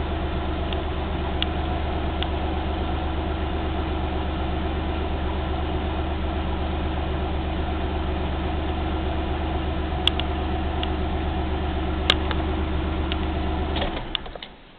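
Maserati Quattroporte IV engine idling steadily, the idle running a little high after an intake cleaning, which the owner says needs readjusting. A couple of light clicks, then the engine is switched off near the end and its sound dies away.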